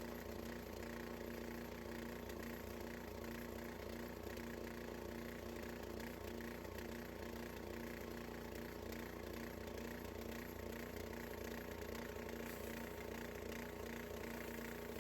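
Harbor Freight bandsaw sawmill's engine running at a steady speed, its pitch and level unchanging.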